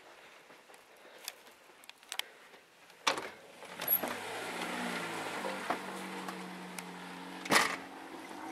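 A car's engine running with a low steady hum as the car moves off slowly, its pitch dipping slightly. There is a knock about three seconds in, just as the engine sound begins, and a sharper knock near the end.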